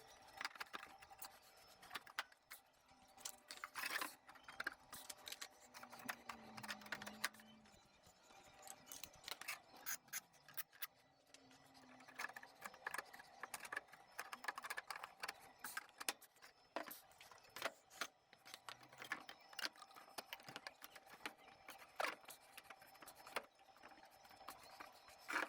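Quiet handling sounds: scattered light clicks and knocks with some scraping, as of objects being moved and worked by hand.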